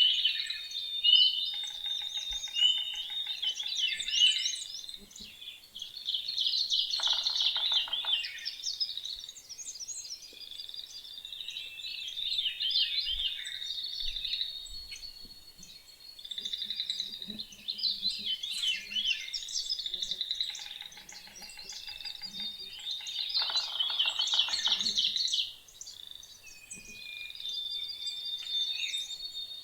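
Several songbirds singing over one another in a continuous chorus of high chirps, trills and whistled notes.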